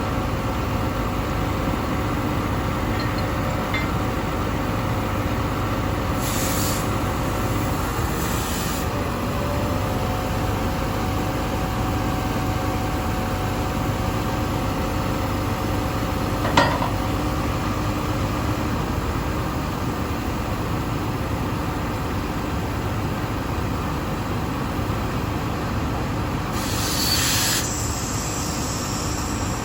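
Heavy diesel engine running steadily with a low rumble, broken by three short bursts of hissing air and one sharp knock about halfway through.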